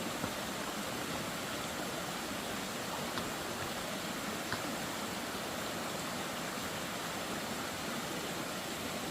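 Steady, even rushing hiss, with faint clicks about three and four and a half seconds in.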